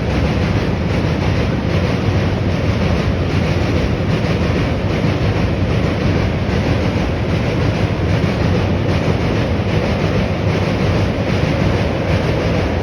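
Train hauled by a WAG-9 electric locomotive rolling steadily along the rails: a continuous, loud rumble of wheels on track.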